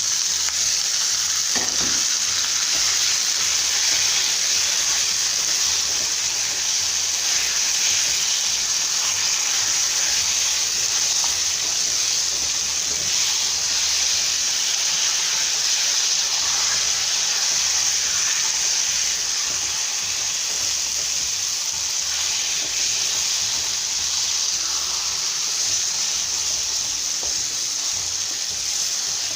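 Raw chicken pieces frying in a pan of hot spiced onion-tomato masala: a steady, dense sizzle.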